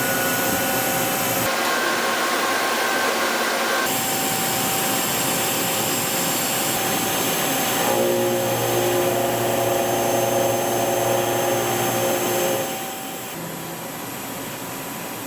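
Doosan PUMA SMX2600ST multitasking turning center machining: a steady hiss of cutting with whining spindle and tool tones. The tones change abruptly several times, and the sound drops in level near the end.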